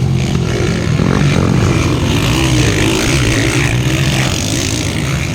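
Motocross dirt bike engines running and revving, with the pitch rising and falling.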